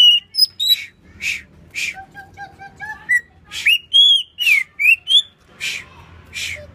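Greater green leafbird (cucak ijo) singing a varied song: clear whistled notes that slide up and down, a quick run of short repeated notes about two seconds in, and harsh rasping notes mixed throughout.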